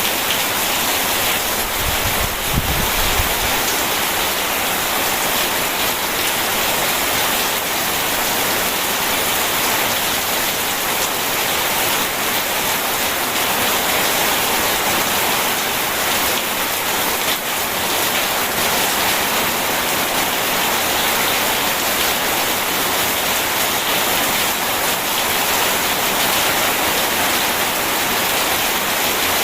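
Steady, heavy rainfall: a dense, even hiss of rain. A brief low rumble comes about two seconds in.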